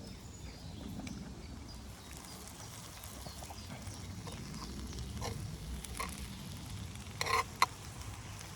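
A few light clicks and a short scrape of a utensil against a small frying pan as tomatoes are checked, over a low steady background; the scrape near the end is the loudest sound.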